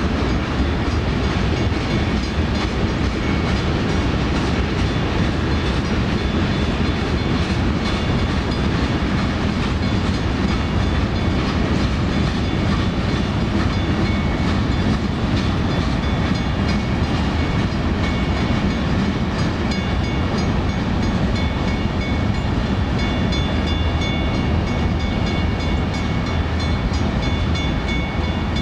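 Freight train tank cars and boxcars rolling past at a grade crossing: a steady rumble of steel wheels on rail with some clickety-clack over the joints. A WCH mechanical crossing bell rings on with quick, even strokes, a sign that the crossing signal is active.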